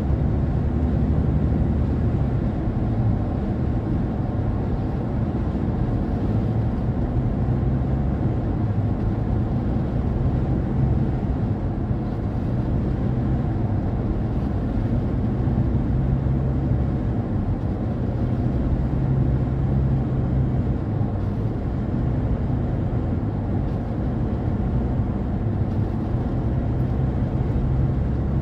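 Steady low rumble of a car driving at road speed, tyre and wind noise blended, with the low end swelling and easing slightly in strong gusting wind.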